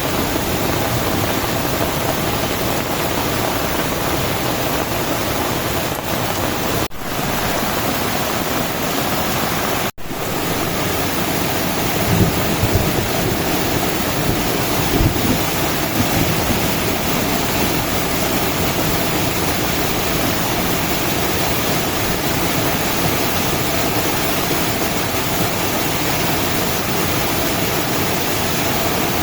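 Heavy rain pouring down steadily, with some low bumps a little before the middle. The sound drops out for an instant twice, about seven and ten seconds in.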